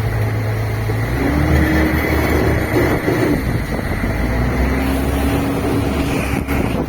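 Fishing boat's engine running steadily under wind and water noise; its note shifts about a second in, and a faint steady tone comes and goes twice.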